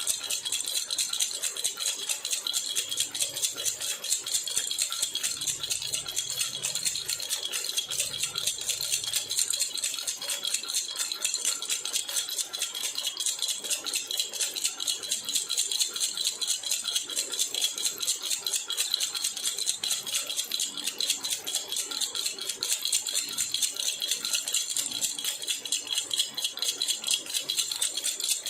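Baby rattle (jhunjhuna) shaken rapidly and steadily, a continuous fast jingle with no pauses.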